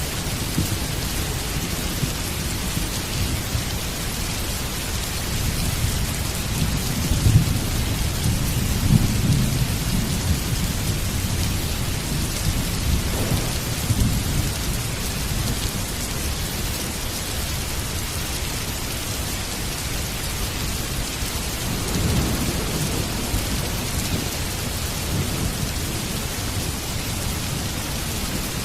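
Heavy rain falling steadily, with rolling thunder rumbling low underneath; the thunder swells loudest several seconds in and rolls again twice more, near the middle and later on.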